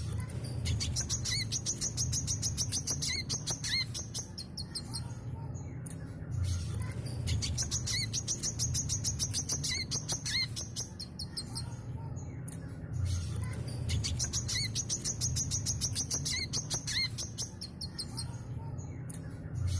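Brown-throated sunbird (kolibri kelapa) singing a fast, high-pitched twittering song in long bursts of several seconds with short pauses between them, over a low steady rumble.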